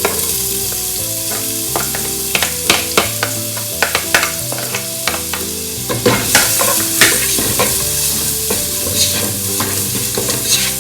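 Chopped onion, green chillies and garlic sizzling in hot oil in a large pan, stirred with a spatula that clicks and scrapes against the pan again and again.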